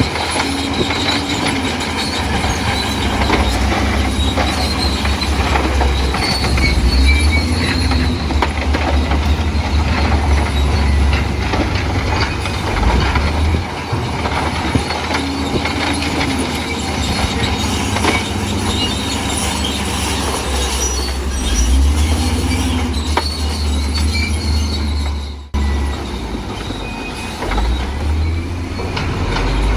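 Bulldozer working: the diesel engine runs under load while the steel crawler tracks clank and squeal continuously. The sound cuts out for an instant about 25 seconds in.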